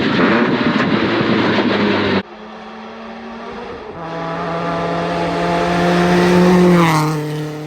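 Loud in-car engine and road noise of a Subaru Impreza rally car at speed, cut off abruptly about two seconds in. Then a rally car's engine is heard from outside, its note growing louder as it approaches and dropping in pitch as it goes past near the end.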